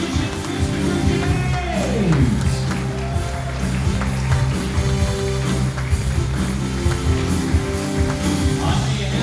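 Live band music with guitar and a steady beat; about two seconds in, one instrument slides down in pitch.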